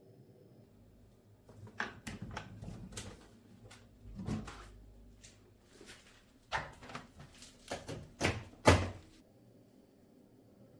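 Irregular knocks and clatters of household objects being handled, loudest near the end.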